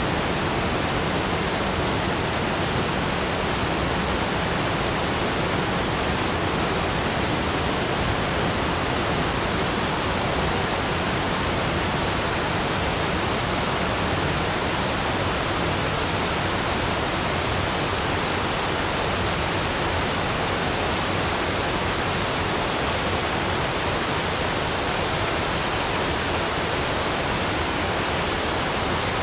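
Cascading waterfalls: a steady, even rush of falling water, spread from deep to high and unchanging in level.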